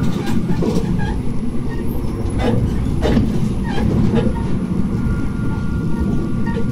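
Tsugaru Railway diesel railcar running along the line: a steady low rumble of engine and wheels on rail, with a few irregular clacks.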